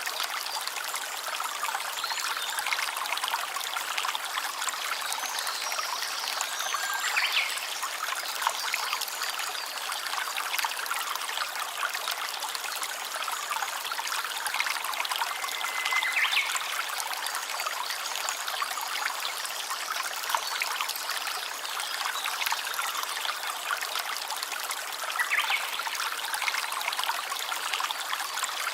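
Small stream trickling and splashing steadily over stones, an even watery hiss. A few brief high notes stand out, about a quarter, half and most of the way through.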